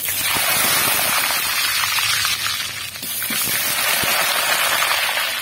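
Potato pieces dropped into hot mustard oil, setting off a sudden loud sizzle with crackling that carries on steadily as they fry.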